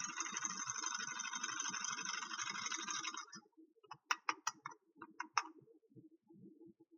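Crinkling and rustling of plastic toy packaging for about three seconds. Then comes a quick run of sharp light clicks as small plastic toy pieces are handled.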